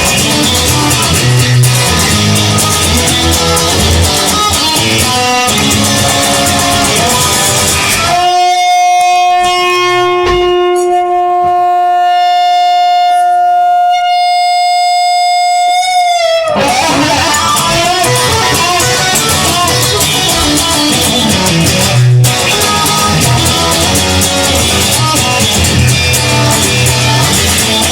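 Instrumental break of a rock song, with guitar and a full band and no vocals. About eight seconds in the band drops away, leaving one long held note that bends upward after about eight seconds as the full band comes back in.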